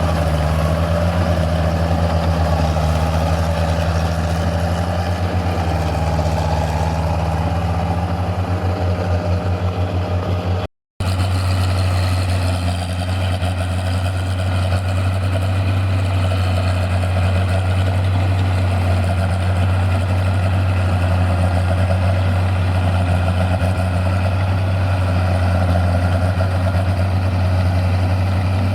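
Tractor engines running steadily, a continuous low hum with no revving, cut off for a moment about eleven seconds in.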